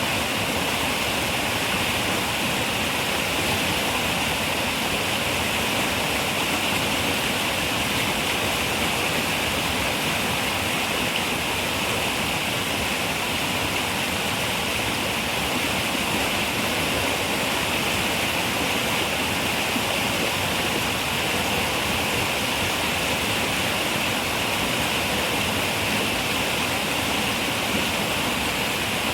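Running river water rushing steadily, an even, unbroken flow with no splashes or other sounds standing out.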